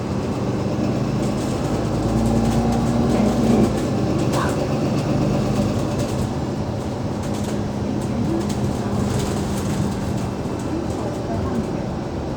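Cummins ISL8.9 diesel engine of an Alexander Dennis Enviro500 MMC bus running under way, its note rising and growing louder about two to three seconds in, then settling back to a steady drone. Light rattles and clicks are heard throughout.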